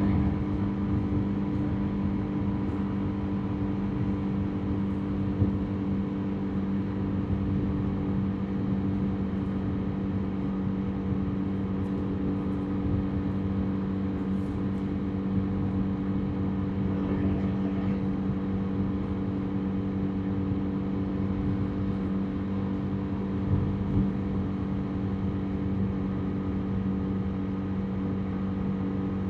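Motorbike engine running at an even cruising speed, its pitch holding steady, under a constant rush of road and wind noise.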